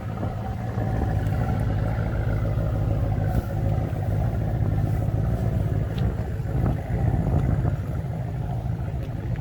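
A steady low engine-like rumble with an even hum, running throughout, with a few faint clicks.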